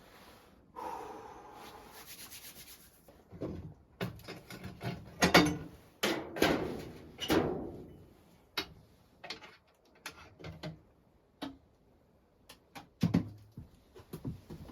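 Handling sounds: rubbing and scraping strokes, loudest in a cluster between about four and eight seconds in, followed by scattered sharp knocks and clicks.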